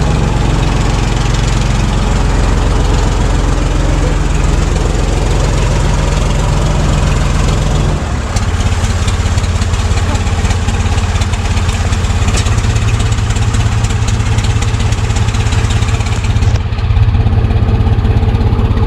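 Backhoe engine running steadily, its note changing about eight seconds in.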